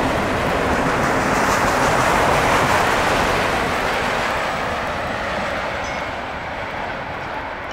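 Freight train of autorack cars rolling past on steel wheels and rails, a steady rushing rumble that fades after the last car goes by and the train moves away.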